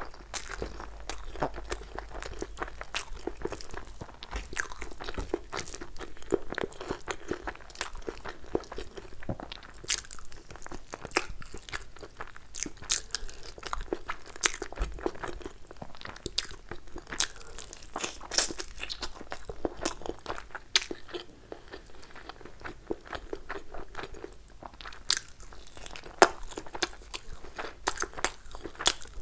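Close-miked eating: chewing and mouth sounds of masala chicken and fried rice being eaten by hand, with many short sharp clicks and smacks throughout, and fingers pulling at the chicken near the end.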